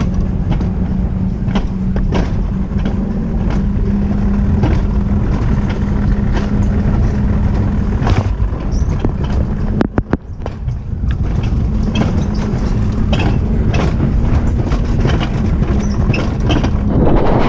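A moving vehicle running steadily: a low rumble with a constant hum, over frequent short clicks and rattles, which dips briefly about ten seconds in.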